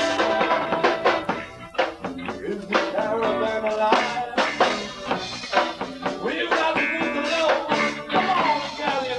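A live band of guitar, bass guitar and drum kit playing a song, with regular drum hits under the guitar and bass.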